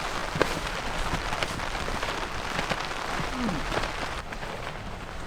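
Rain falling steadily, with many individual drops striking close by as small sharp ticks.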